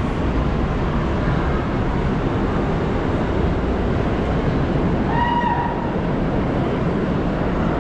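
New York City subway train running, a steady loud rumble and rattle of the car in motion, with a brief high tone about five seconds in.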